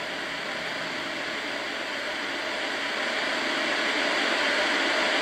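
HoMedics SoundSpa portable sound machine playing its white-noise setting through its small speaker: an even, steady hiss that grows slowly louder.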